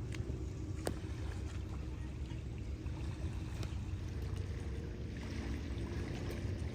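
A steady low rumble and hum, with a few sharp clicks in the first few seconds.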